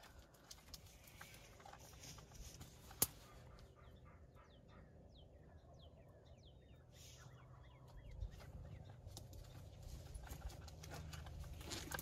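Faint bird calls: a run of short, falling chirps through the middle, over a low steady rumble, with a single sharp click about three seconds in.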